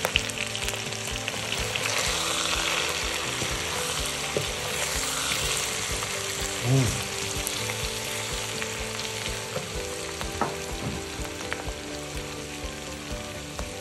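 Pork and kimchi stir-fry sizzling steadily in a hot pan, with scattered clicks and scrapes of a utensil stirring it. There is one brief louder sound about seven seconds in, and the sizzle eases a little toward the end.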